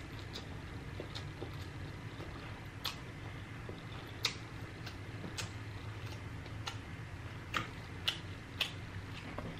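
Close-up mouth sounds of someone chewing instant noodles: scattered wet clicks and smacks, one every second or so, over a low steady hum.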